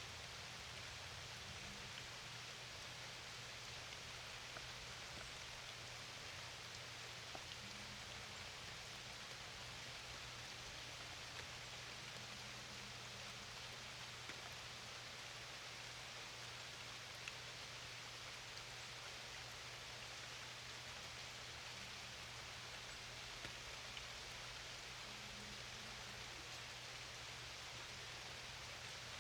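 Steady rain falling, an even hiss with scattered faint drop ticks, over a low steady hum.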